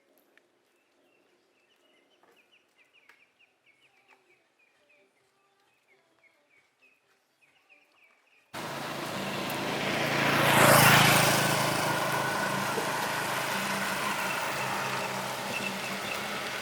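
Faint high chirping of small birds, then, about eight seconds in, a sudden switch to a loud motor vehicle with a low engine note that swells as it passes close and then slowly fades.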